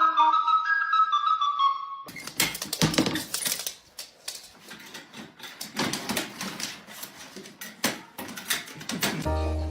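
Light flute-like melody for about two seconds. It gives way to several seconds of irregular clicking, tapping and clattering, and music with a bass line starts again near the end.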